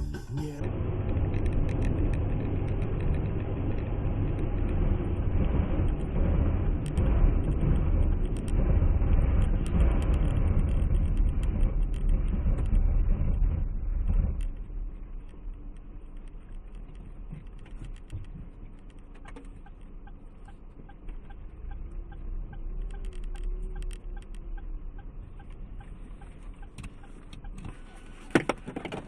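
Car driving, with a steady engine and road rumble, louder for the first half and then quieter. A sharp click comes just before the end.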